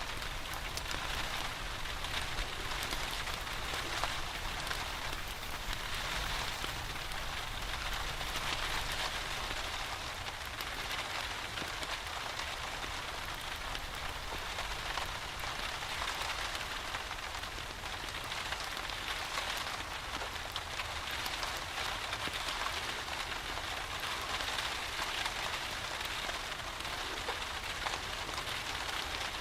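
Steady rain falling, an even hiss that never lets up, with a faint low rumble underneath.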